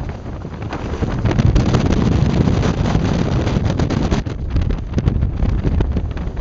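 Strong, gusty wind buffeting the microphone: a loud low rumble with crackling, swelling about a second in.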